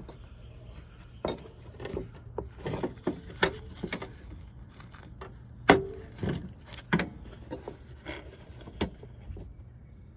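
Irregular knocks, clinks and scrapes of hand work on a mower's metal parts and tools, the loudest knock about halfway through.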